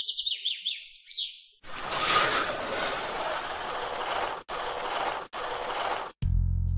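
A bird chirps a quick run of high notes, each falling in pitch. It is followed by a loud, steady rushing noise that cuts out briefly twice, and then music with a low steady tone begins near the end.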